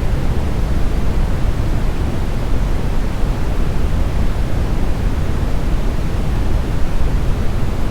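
Smoothed brown noise: a steady, deep rushing hiss, strongest in the low end and rolling off toward the treble, with no changes or events.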